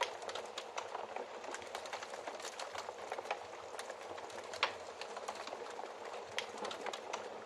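Fireplace fire crackling: a steady hiss with irregular sharp pops, a louder pop right at the start and another about four and a half seconds in.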